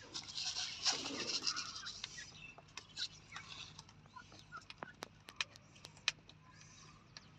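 Birds calling: a dense burst of high chattering in the first two seconds, then scattered short chirps and sharp clicks.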